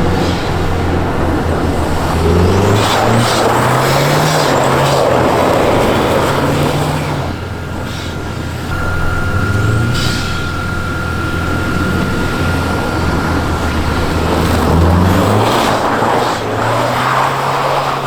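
Turbocharged car engine revving hard and repeatedly, its pitch climbing and dropping as it is driven, with a steady high whistle for several seconds in the middle.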